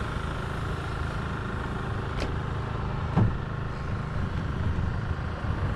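Boat outboard motor running steadily with its cowling off: a constant low drone with a faint steady whine above it. A brief click about two seconds in and a short knock about a second later.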